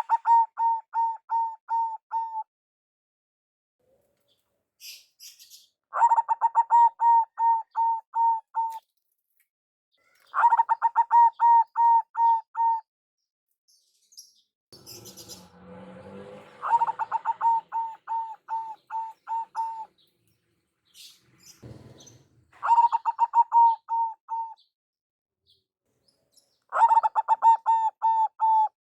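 Zebra dove (perkutut) cooing in repeated runs: six bursts of quick, evenly spaced coo notes, about three a second, each run two to three seconds long. A faint rustling noise lies under the fourth run.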